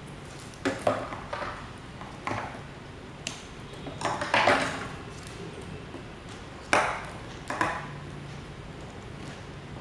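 Metal parts and tools clinking and tapping: a series of sharp metallic hits with short ringing, the loudest about halfway through.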